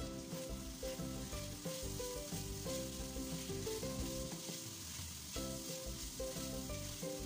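Chicken pieces sizzling and frying in a little oil in a hot wok while a wooden spatula stirs them, at the dry-adobo stage after the sauce has cooked off and the meat is browning. A tune plays underneath, pausing briefly about two-thirds of the way through.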